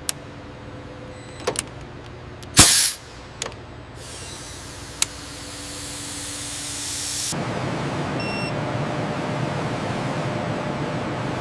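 Factory machinery sounds: a few sharp clicks, a short loud hiss about two and a half seconds in, then a rushing noise that swells and holds steady from about seven seconds on.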